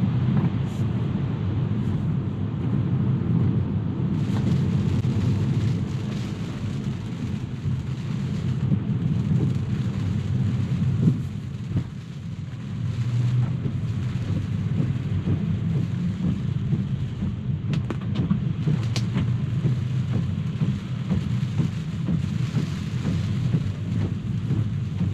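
Steady low rumble of a car driving on rain-soaked roads, heard from inside the cabin, with rain noise above it and a few sharp ticks about two-thirds of the way through.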